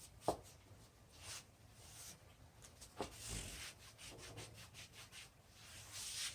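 Irregular rubbing and scraping strokes on wood as glue squeeze-out is cleaned off a freshly glued wooden jig, with two sharp knocks, one near the start and one about three seconds in.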